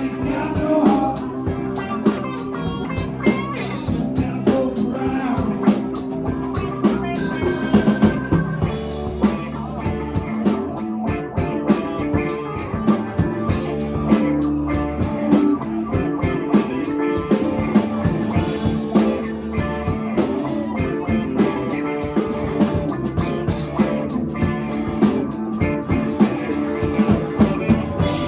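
A live band playing rock music, with a drum kit keeping a steady beat under guitar.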